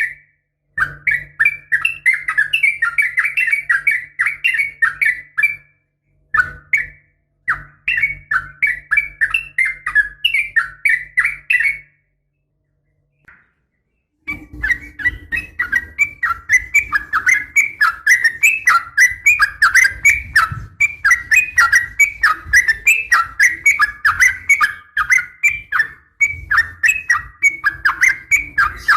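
Yellow-vented bulbul (trucukan) calling in a fast, continuous run of bubbly chattering notes, several a second. The run breaks off twice briefly around a quarter of the way in, and falls silent for about two seconds near the middle before resuming. It is a looped lure recording billed as a female calling a male.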